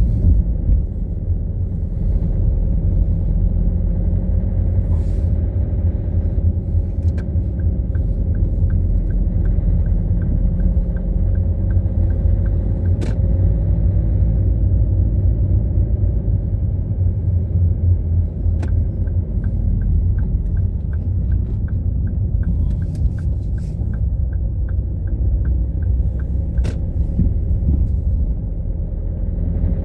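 Steady low road and engine rumble inside a moving car. Twice, an even ticking of about two clicks a second runs for several seconds, typical of a turn-signal indicator, with a few single sharp clicks along the way.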